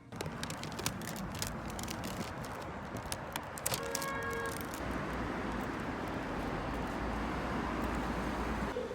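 Road traffic noise: a steady rush with scattered clicks, and a short pitched tone about four seconds in.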